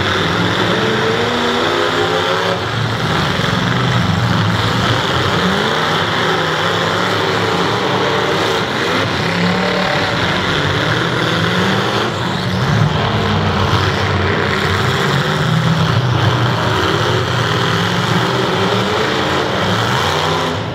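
Several demolition derby cars' engines revving and running together, loud and continuous, their pitches rising and falling as the cars drive and push one another.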